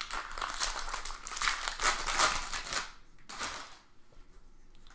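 Foil wrapper of a 2017 Bowman Draft baseball card pack crinkling as it is torn open by hand: about three seconds of dense crackly rustling, one shorter rustle, then quieter near the end.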